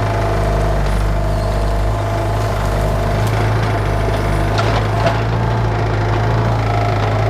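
Bobcat 331 mini excavator engine running steadily under digging work, with a couple of short knocks about four and a half and five seconds in.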